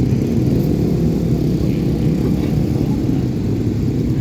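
Motocross motorcycle engines running, a steady low drone.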